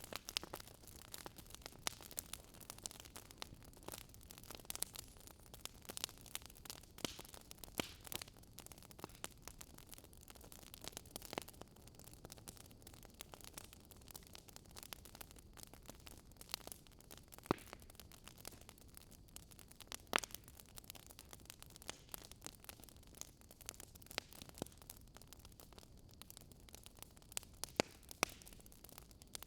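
Wood fire burning in a fireplace, crackling with frequent irregular sharp pops over a soft steady hiss.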